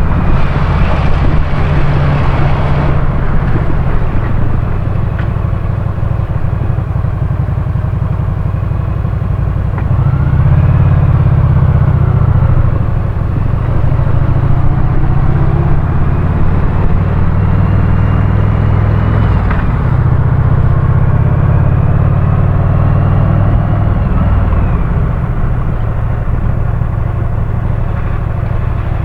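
Motorcycle engine running under way, a steady low drone that grows louder for a few seconds at a time as the throttle is opened, with road and wind noise.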